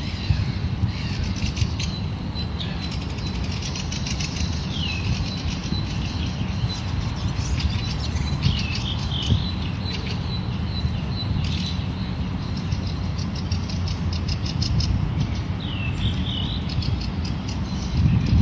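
Birds chirping and calling, with quick repeated chirps and several short swooping calls, over a steady low rumble of wind on the microphone.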